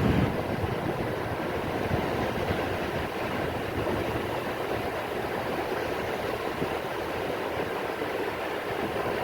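Steady hiss of rain falling on the sea at the coast.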